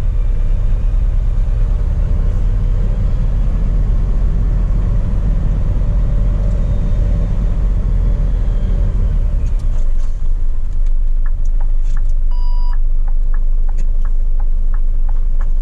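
Scania P420 truck's diesel engine running with a steady low drone as the truck is driven back up a snowy hill. In the last few seconds a quick series of short clicks joins it, with one brief beep about twelve and a half seconds in.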